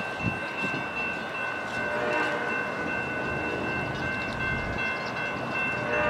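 Amtrak Coast Starlight passenger train running past, a steady rolling noise with a steady high tone held over it.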